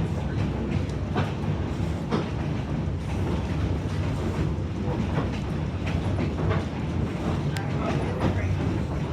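Narrow-gauge passenger train rolling along the track: a steady low rumble with irregular clicks from the wheels crossing rail joints.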